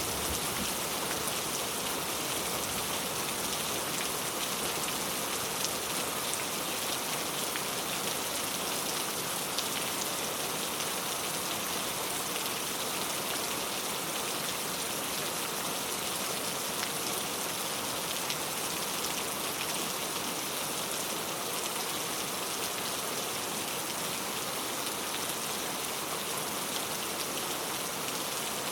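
Steady rain falling on a surface, a dense even patter of drops with faint individual ticks.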